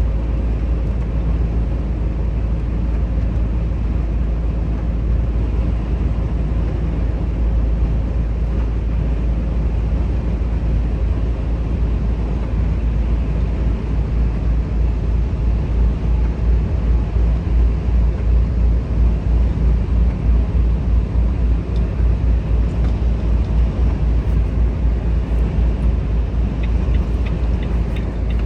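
Volvo FH 460 truck's 13-litre six-cylinder diesel engine and road noise while driving, a steady low rumble. From about halfway through, a rhythmic low throbbing comes in.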